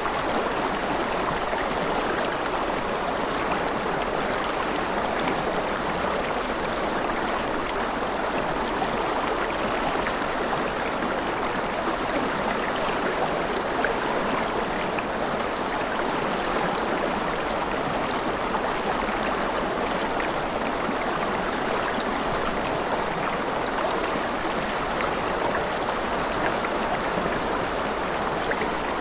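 River water flowing and splashing in a steady, even rush with no pauses.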